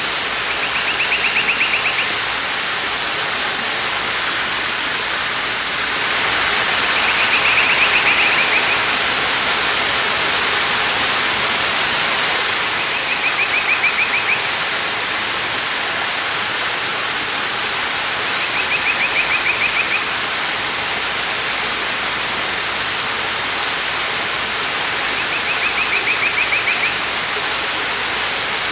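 Steady rushing of a waterfall, with a small bird's rapid trill repeated five times, about every six seconds.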